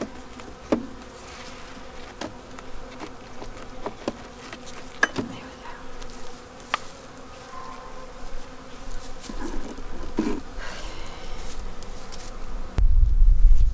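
Honeybees buzzing steadily around an open hive, with scattered sharp clicks and knocks of wooden frames being handled. A sudden low rumble starts near the end.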